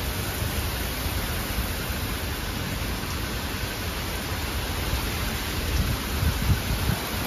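Heavy rain pouring down in a thunderstorm downburst, a steady hiss, with gusts of wind buffeting the microphone as low rumbles that grow stronger near the end.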